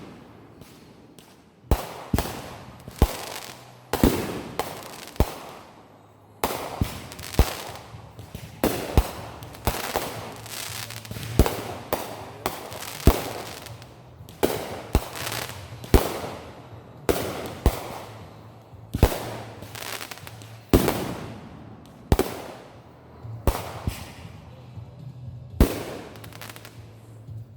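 Consumer fireworks going off in a rapid series of sharp bangs, about one or two a second, each trailing off in a short echo.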